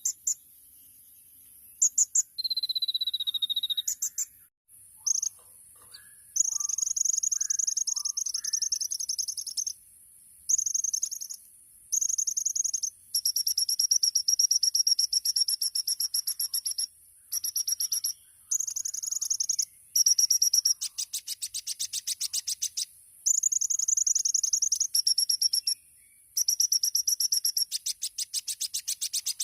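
Kolibri ninja (a sunbird) singing a high, fast song: a few short notes and a slightly falling whistle, then long rapid trills in phrases of one to three seconds with short pauses between them. These are the rapid bursts ('tembakan') prized in a champion bird.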